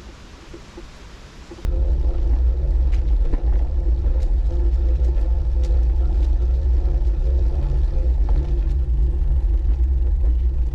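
Steady low rumble of riding a Brompton folding bike along a bumpy towpath: tyre vibration and wind on the microphone, starting suddenly about two seconds in, with a few light clicks over it.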